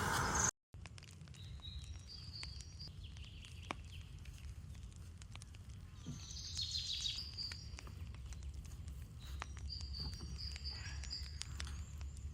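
Forest ambience with birds chirping in short high bursts, over a steady low rumble with scattered faint clicks. It starts after a brief dropout about half a second in.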